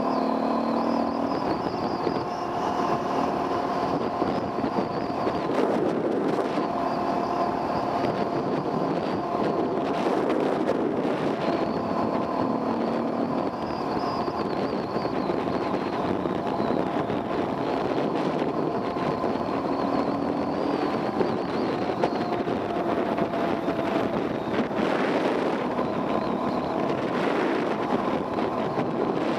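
Enduro dirt bike engine running on a trail ride, its pitch rising and falling with the throttle, heard from a helmet camera.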